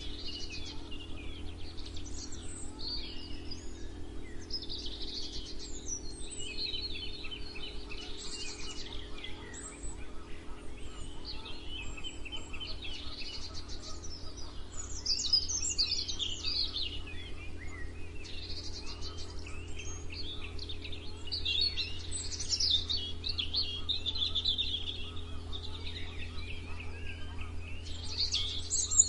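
Several songbirds singing and chirping at once in overlapping high trills and short calls, busier in the second half. A steady low hum runs underneath.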